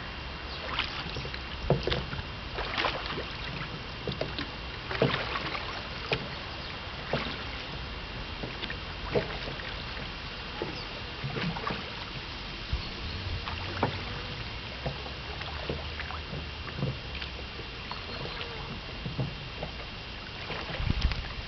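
Small boat on the water: irregular splashes and knocks of water against the hull, over a faint steady hum.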